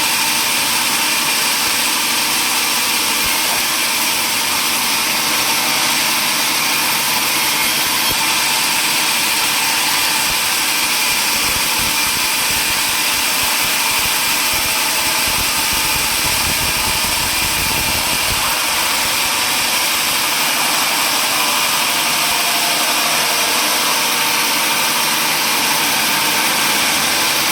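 Sawmill saw machinery, most likely the table saw, running steadily with a loud, even noise. A low rumble rises for a few seconds around the middle.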